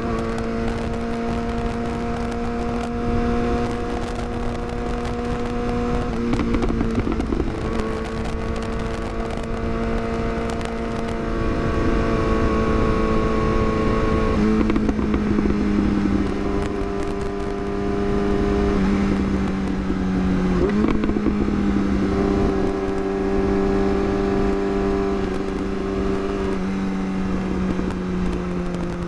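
Yamaha R6 inline-four engine running at a steady, fairly high rpm while riding, its pitch holding for several seconds at a time and stepping down a little a few times, over steady wind rush on the microphone.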